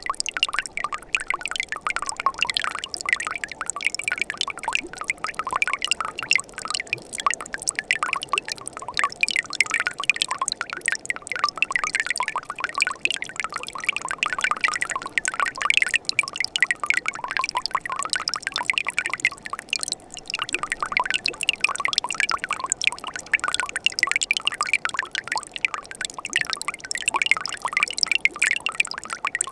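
Mountain stream flowing over rocks: a steady babbling and trickling of running water.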